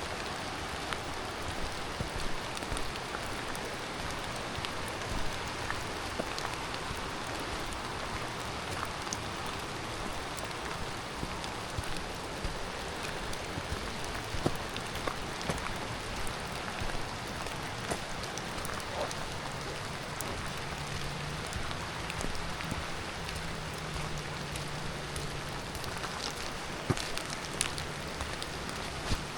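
Steady rain falling, an even hiss with many scattered drops ticking close by and a few louder drop hits.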